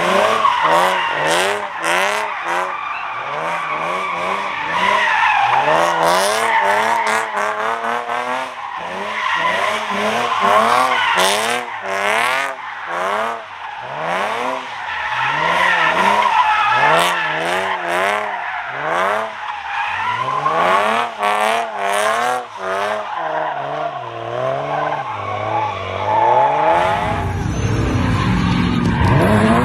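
Vehicle engine revving hard again and again, its pitch climbing and dropping over and over, with tyres squealing. Near the end this gives way to a low steady rumble.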